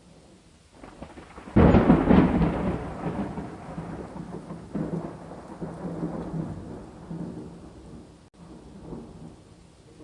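A thunderclap breaks suddenly about a second and a half in, then rolls on, fading gradually over the next several seconds, over steady falling rain.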